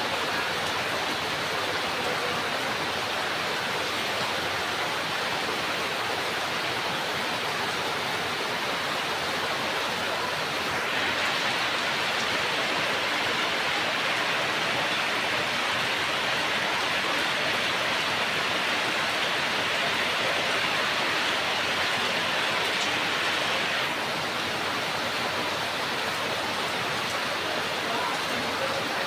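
Steady rain falling, a little heavier for about a dozen seconds in the middle.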